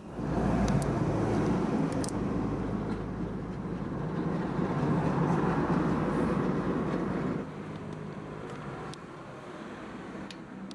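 A motor vehicle's engine running: a loud, steady rumble that starts suddenly and drops to a quieter level after about seven seconds.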